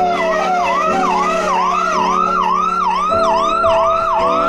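Police vehicle siren sounding a fast yelp, its pitch rising and falling about two and a half times a second, over a steady held tone.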